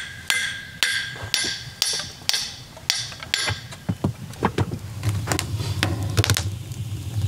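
Hammer blows driving a nail into wood, about two strikes a second with a brief ring after each, then a few lighter, irregular knocks.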